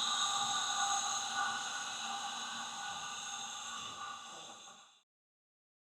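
A steady hiss carrying several held tones, fading out about four seconds in and stopping dead just after five seconds.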